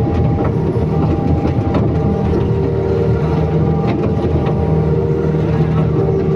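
Excavator's diesel engine running steadily, with scattered short knocks and clanks over it.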